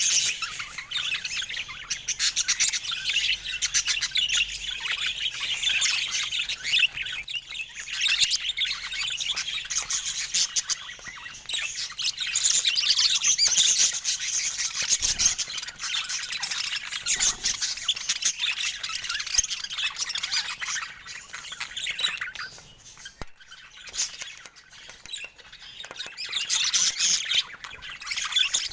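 Budgerigars chattering and chirping in quick, high-pitched calls, with a short lull late on.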